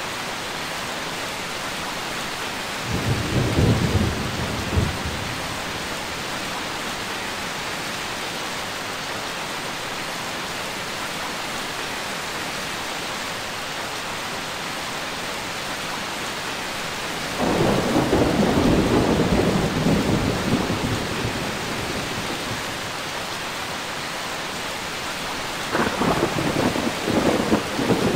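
Steady heavy rain hiss with three rolls of thunder: a short rumble a few seconds in, a longer, louder one past the middle that dies away over several seconds, and another starting near the end.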